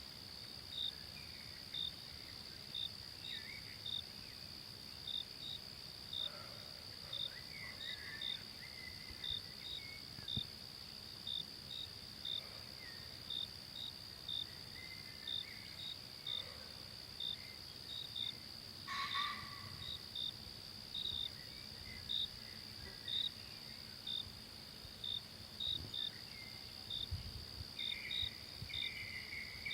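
Forest ambience of insects: a steady high-pitched drone with a cricket chirping in short, regular pulses about once or twice a second. Faint bird calls come in here and there.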